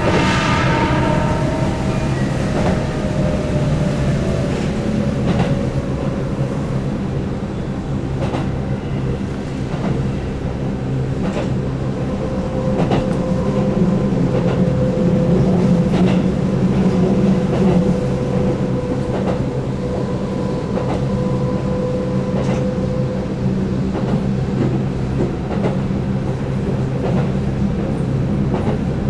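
Keihan 8000-series electric train running at speed, heard from on board: a steady rumble with the whine of its field-added-excitation-controlled DC traction motors holding a near-constant pitch, and the wheels clicking over rail joints. A brief rushing hiss fades away in the first second.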